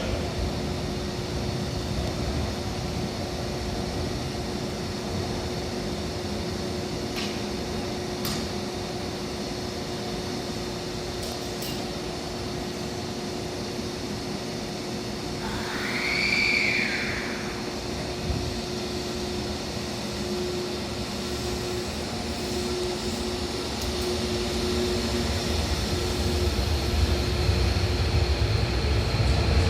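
Hankyu 1000-series electric train standing at the platform with a steady electrical hum. About halfway through a short tone rises and falls in pitch, and near the end a low rumble builds as the train starts to move off.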